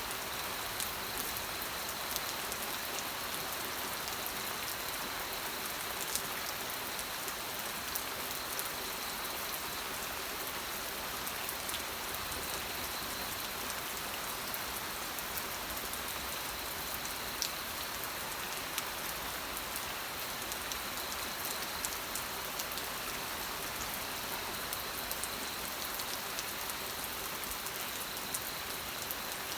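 Steady rainfall, an even hiss of rain on surfaces with scattered individual drops ticking sharply throughout.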